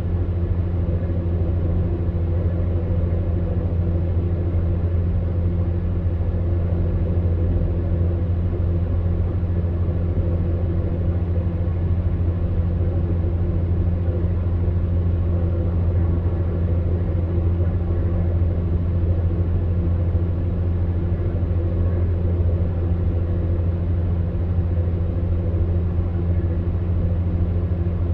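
Electric fan heater running steadily: a low motor hum with a few faint steady tones above it, over an even rush of blown air.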